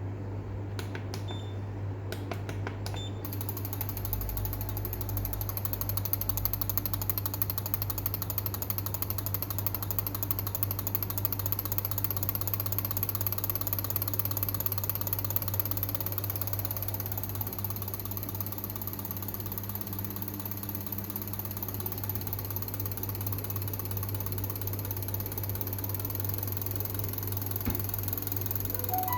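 Fast, steady mechanical ticking over a constant low hum. A few separate clicks come first, and the ticking settles in about three seconds in.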